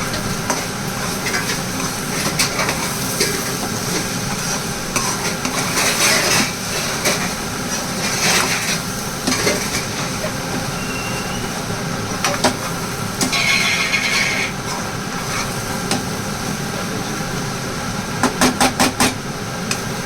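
Cooking sounds: a utensil stirring and clinking against a pan, with scattered clicks and clatters over a steady hiss. There is a quick run of clicks near the end.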